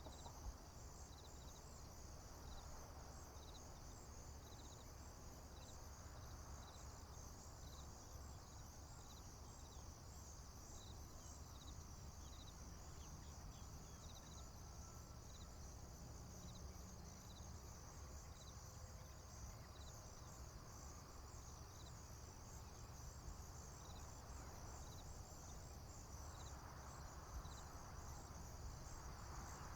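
Faint chorus of crickets: a steady high trilling with a separate short chirp repeating a little under twice a second, over a low steady rumble.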